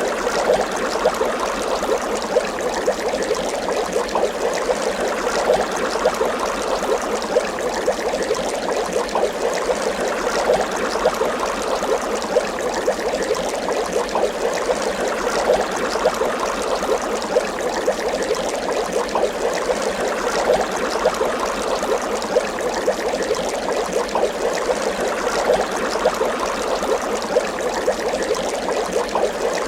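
Water bubbling continuously, with a dense stream of small bubbles popping and gurgling at an even level.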